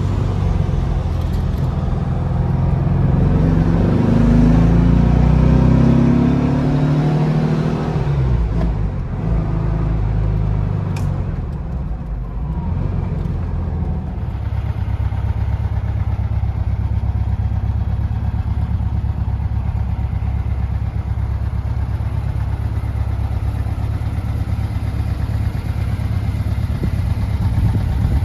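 Air-cooled flat-four engine of a 1956 Porsche 356A, warming up after a cold start. It is revved, rising and falling in pitch over the first several seconds, then settles about halfway through into a steady idle.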